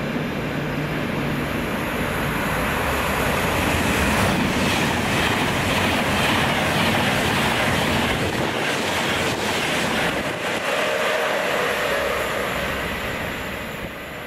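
A train passing close by on the main line: a loud, steady rush of wheel-on-rail noise that eases off near the end.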